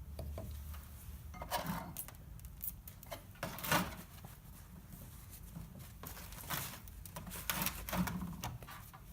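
Intermittent light metal clicks and short scrapes of freshly greased brake caliper slide pins being pushed in and out of their caliper bracket bores and handled.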